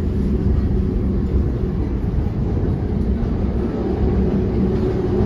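Steady low running noise of an NJ Transit Comet II/IV passenger coach moving along the track, heard from inside the car.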